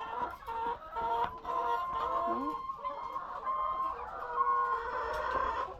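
A flock of laying hens clucking and calling, many overlapping drawn-out calls at once.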